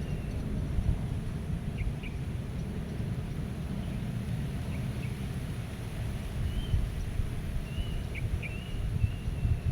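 Low, gusty wind noise, with birds chirping now and then in short calls and a small cluster of chirps near the end.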